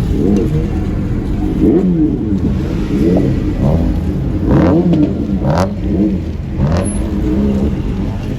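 Car engine revving up and down again and again, its pitch climbing and dropping in quick arches. Three short, sharp noises come about a second apart in the middle.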